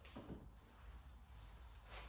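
Near silence: a faint low rumble, with soft brushing sounds just after the start and again near the end, as a microfiber towel wipes car paint dry.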